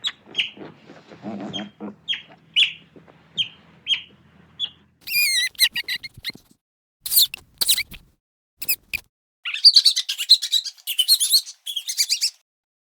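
Birds chirping: short high chirps repeat about once or twice a second for the first five seconds, then a warbling trill, a few sharp calls, and a busy run of chirping song near the end, with short silent breaks between them.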